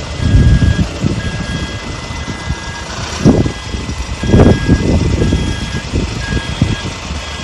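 Strong wind buffeting the microphone in gusts, loudest about three and four and a half seconds in, over a steady electronic beep repeating about once a second.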